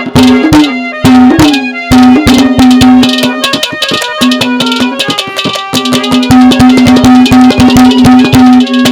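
Instrumental interlude of Haryanvi ragni folk music: a reed instrument holds a drone note under a melody while a hand drum plays quick, dense strokes.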